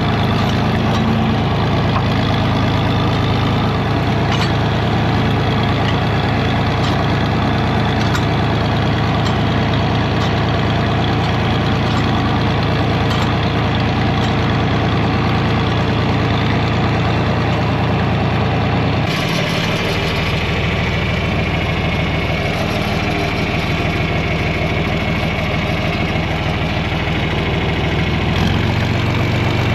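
John Deere 4000 tractor engine running steadily at idle, its tone shifting about two-thirds of the way through and again near the end.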